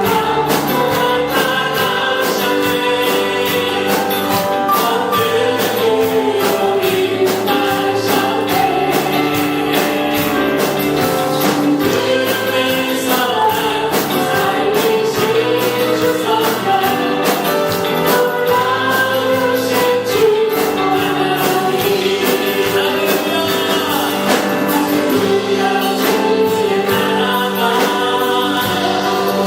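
Group singing a Christian praise song with band accompaniment: sustained melody over a bass line and a steady drum beat.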